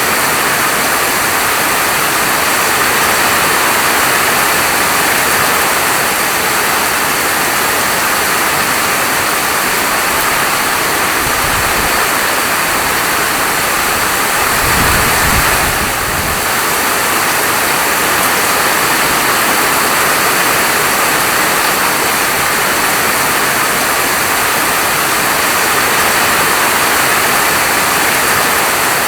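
Steady rainfall, an even, dense hiss. About halfway through there is a brief low rumble.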